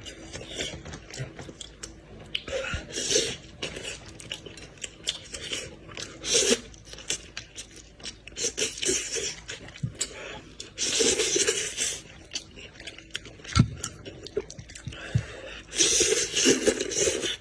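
Close-up chewing and crunching while eating goat's head, in irregular bursts with a few sharp clicks.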